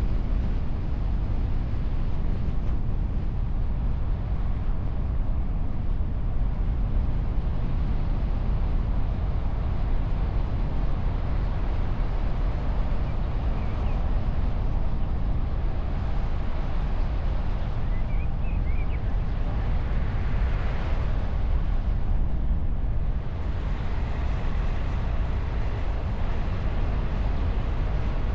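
Wind and road noise of a car driving, heard from a camera mounted on the bonnet behind a windscreen muff: a steady low rumble and hiss, with a brief swell of brighter hiss past the two-thirds mark.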